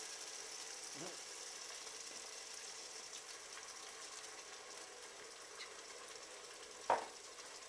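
Pan sauce of shallots, mushrooms and butter sizzling steadily as white wine deglazes the hot pan, with a single sharp knock near the end.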